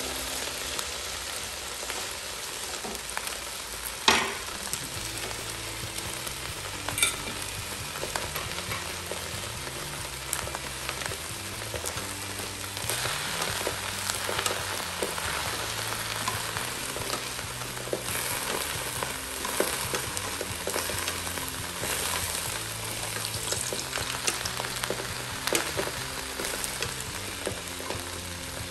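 Hot oil sizzling and crackling in an aluminium wok as a foil-wrapped stuffed milkfish (relyenong bangus) fries, with a metal spoon scraping and spooning oil in the pan. A single sharp knock sounds about four seconds in.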